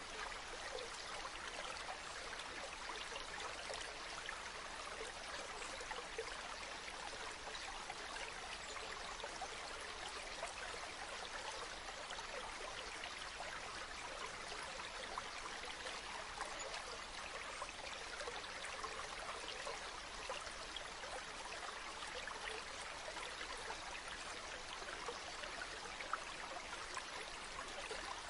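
River water flowing steadily: an even, constant rush with fine small splashes and trickles in it.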